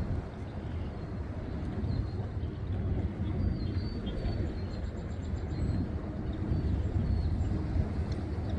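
Outdoor ambience: a steady low rumble throughout, with a few faint high chirps about halfway through.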